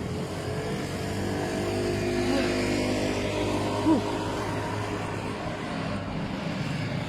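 Road traffic heard from a bicycle: vehicle engines running steadily alongside, with one short chirp that rises and falls in pitch about four seconds in.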